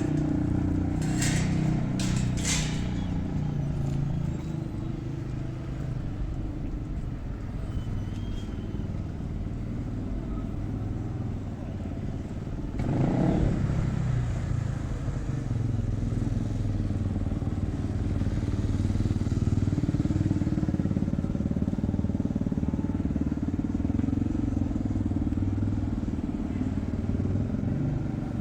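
Motor vehicle engines running, with one vehicle passing close about thirteen seconds in, its pitch falling as it goes by.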